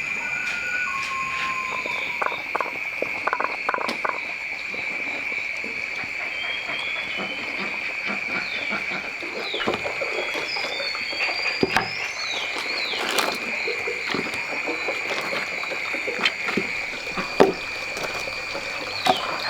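Frogs calling in a chorus over a continuous high-pitched trill, with short chirping calls in the middle and scattered clicks and knocks throughout.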